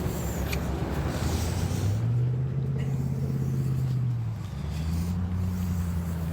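An engine running steadily at low revs. About two seconds in it revs up a little, and it drops back about four seconds in.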